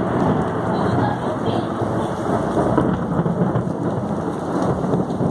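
Heavy rain falling steadily, with thunder rumbling through it in a lightning storm.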